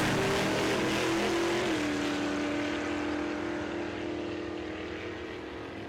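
Drag race car engine at full throttle running down the strip, its pitch dropping once about one and a half seconds in and the sound slowly fading as the car pulls away.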